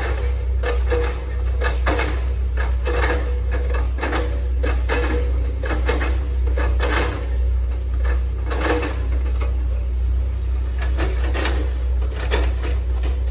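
Hitachi ZX110 excavator's diesel engine running steadily under load, with irregular sharp cracks and clatter as the bucket chops into oil palm trunks, about one or two a second.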